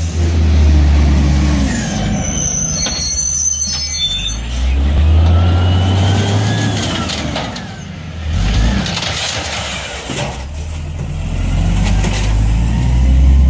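Garbage truck's engine running and revving up and down, with a short high hiss of air brakes about two seconds in.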